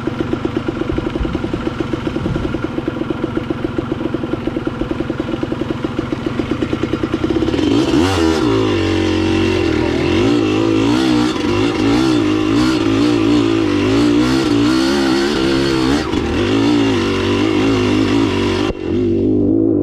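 Dirt bike engine idling with an even, pulsing beat, then revved about seven seconds in and held at changing revs, its pitch rising and wavering as it pulls away.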